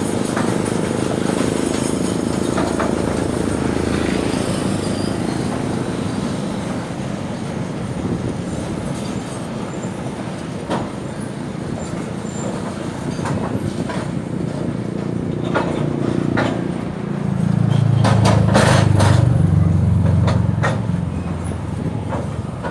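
Container freight train rolling past, its wagon wheels rumbling steadily on the rails with scattered clicks over the rail joints. A louder low rumble swells for a few seconds about three-quarters of the way through.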